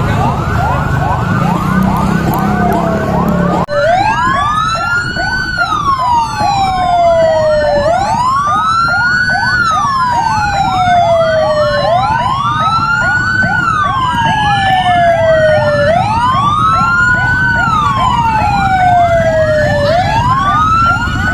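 Electronic vehicle siren sounding: a rapid yelping warble that switches suddenly, about four seconds in, to a slow wail rising and falling about every four seconds.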